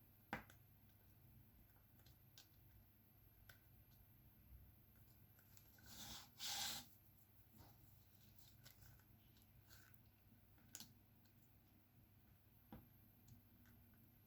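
Faint, scattered small clicks and taps of a diamond painting pen picking up and pressing resin drills onto the canvas, with a brief rustle about six seconds in.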